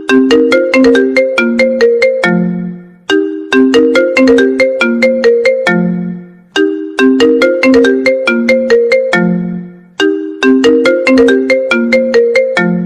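iPhone ringtone playing on a loop: a bright, marimba-like run of quick notes that repeats about every three and a half seconds, each phrase ending on a lower held note that fades before the next one starts.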